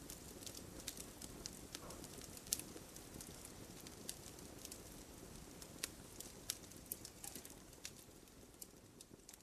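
Wood campfire crackling: frequent sharp pops and snaps of burning wood over a low steady rush of flame.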